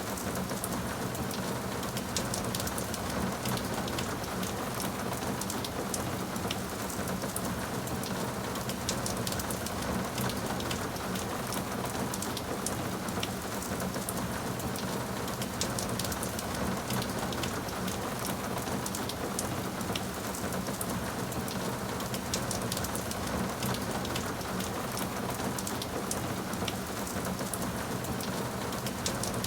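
Steady rain falling on a surface, with many separate drop hits over a constant hiss.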